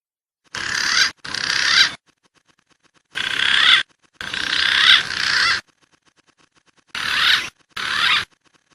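Recorded wild pigeon calls played as a bird lure: six short whistling passages, mostly in pairs, each starting and stopping abruptly as if cut, over a hissy recording background.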